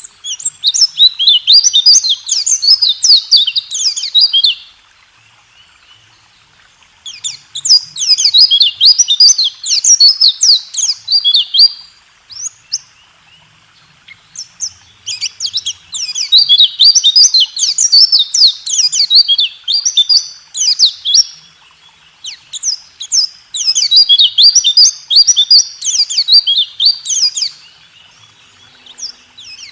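White-eye (pleci) singing its fast rolling song: four long bouts of rapid, high chirping notes, each lasting four to six seconds, with short pauses between them.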